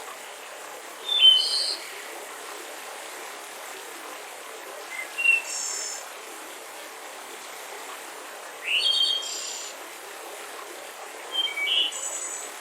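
Small songbirds chirping in four short bursts of high calls a few seconds apart, over the steady rush of a mountain river.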